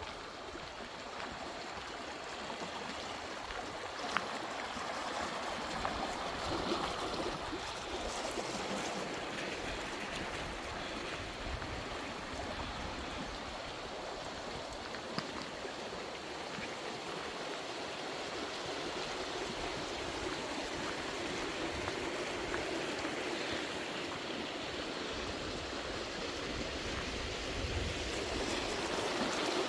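Stream water rushing steadily, growing a little louder near the end.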